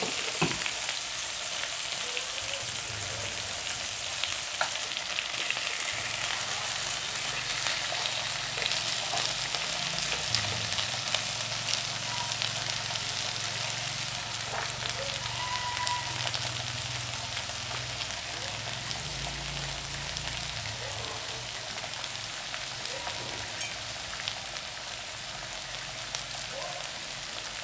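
Marinated beef and potato slices sizzling steadily on a hot tabletop grill pan, with a few light clicks now and then.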